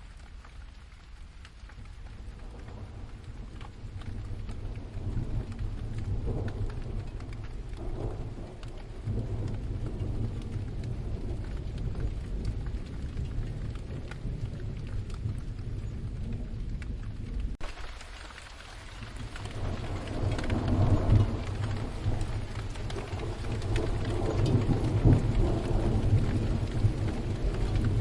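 Steady rain with rolling thunder. Low rumbles swell a few seconds in, drop away abruptly just past halfway, then build again to their loudest near the end.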